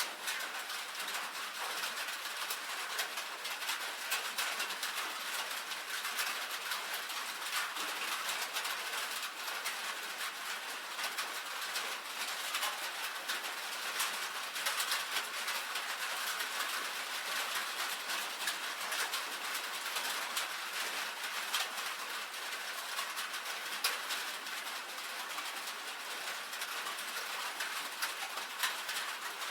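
Steady rain falling on a tin roof: a dense, even patter of drops, with many sharp individual ticks of drops hitting the metal.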